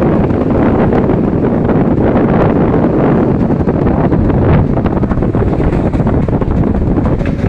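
Strong wind buffeting the microphone: a loud, continuous rushing rumble that rises and falls in gusts.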